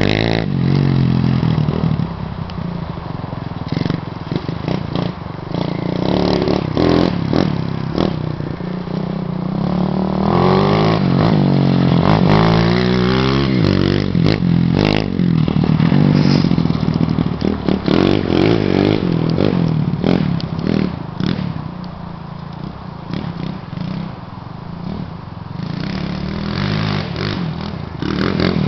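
Dirt bike engine revving up and down over and over, its pitch rising and falling, with scattered clicks and clatter.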